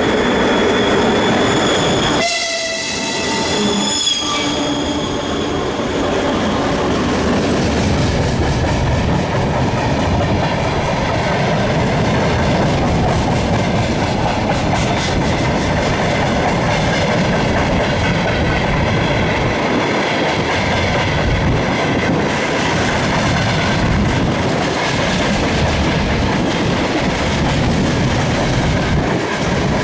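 A freight train hauled by a pair of 2TE116 diesel locomotives sounds its horn for the first few seconds, the tone ending about four seconds in. Then the wagons roll past with a steady rumble and rail clatter.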